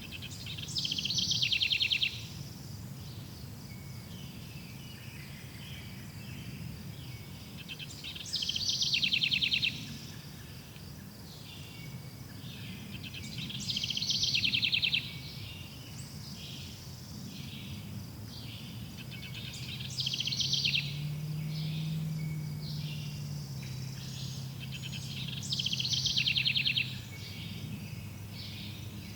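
A forest songbird repeating the same short song five times, about every six seconds; each phrase lasts about a second and ends in a fast trill. A steady chorus of insects or crickets sits behind it.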